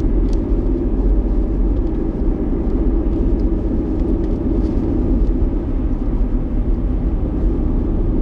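Steady low rumble of a vehicle driving through a blizzard: road and wind noise, with no distinct events.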